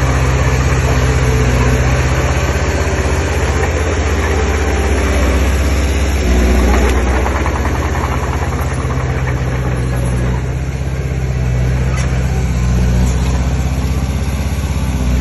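Diesel engine of heavy earthmoving machinery running steadily, its engine note shifting a couple of times as the load changes.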